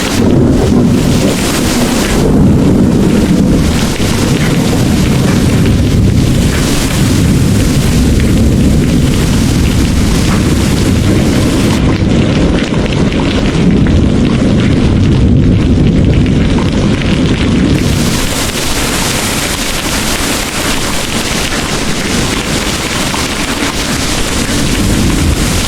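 Heavy rain pouring steadily, with a long low rumble of rolling thunder beneath it that swells and eases several times.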